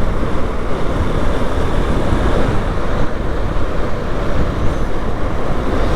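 Steady rush of wind over a motorcycle rider's action-camera microphone, mixed with engine and road noise while riding in traffic.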